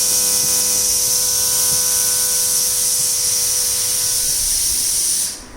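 Loud, steady hiss from a speaker driven by a Lepy LP-2020 Class T mini amplifier with its volume at 0 and no input: the amplifier is faulty. A faint set of steady tones sits underneath and fades out, and the hiss cuts off abruptly near the end.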